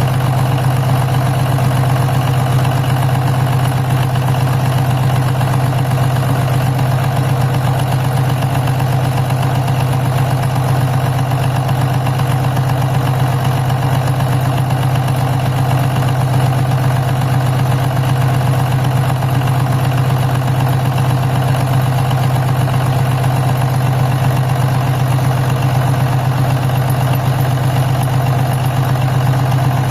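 Diesel engine idling steadily, with an even low hum that does not change.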